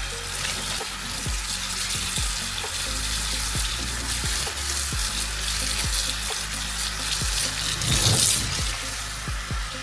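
Kitchen tap running into the sink: a steady rush of water, louder about eight seconds in, with soft background music underneath.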